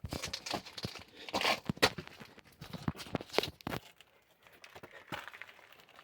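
Rustling, scuffing and scraping of a person squeezing through a narrow lava cave, with clothing brushing and hands and shoes on rock, and irregular sharp clicks. Busy for about four seconds, then quieter.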